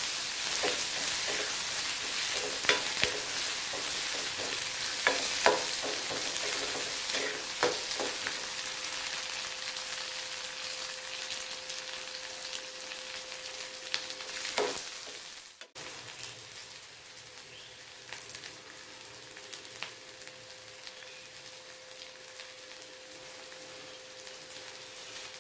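Sliced onions, ginger, garlic and dried red chillies sizzling as they fry in sesame oil in a kadai, with a steel ladle stirring and clinking against the pan. After about fifteen seconds the stirring stops and a quieter, steady sizzle remains.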